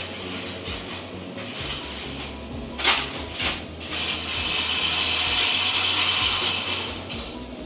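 Bakery back-room work sounds: a few sharp knocks, the loudest about three seconds in with another half a second later, then a steady hiss for about three seconds.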